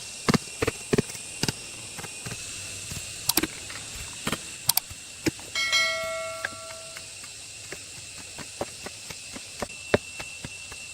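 Irregular clinks and knocks of metal tools and engine parts being handled. About five and a half seconds in, one struck metal piece rings with a clear bell-like tone that fades over about a second and a half.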